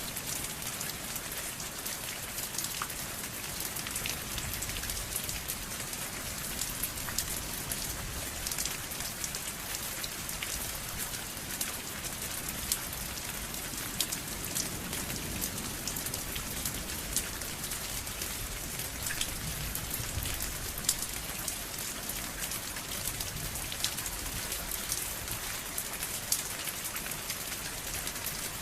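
Steady rain falling on a surface, a continuous hiss dotted with individual drop ticks and a soft low rumble underneath.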